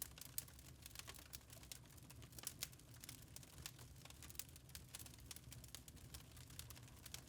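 Wood fire in a fireplace crackling faintly, with many irregular sharp pops and snaps over a steady low rumble.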